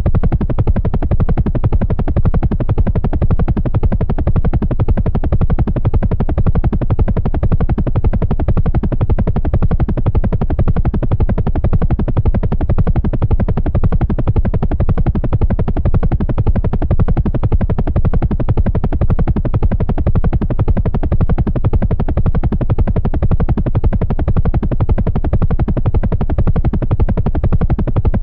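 Helicopter in flight, its rotor and engine running steadily: a rapid, low, continuous thudding with no break.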